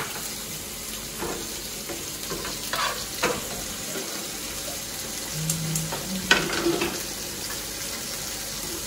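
Chicken strips sizzling as they fry in oil in frying pans, with a few scrapes and knocks of a utensil against a pan.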